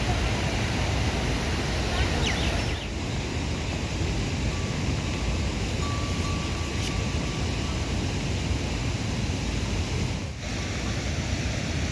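Heavy rain falling steadily, a dense even rush with two brief dips.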